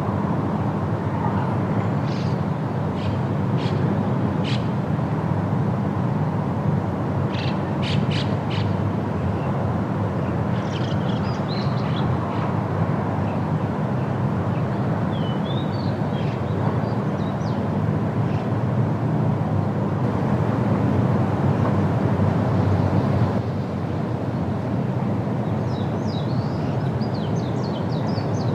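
Steady wind rushing through trees, with small birds chirping and twittering at intervals over it.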